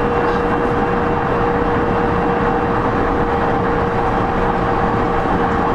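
Running noise of a JR East E231-0 series commuter train at speed, heard from inside a motor car: a steady rumble of wheels on rail with a steady whine from the traction equipment.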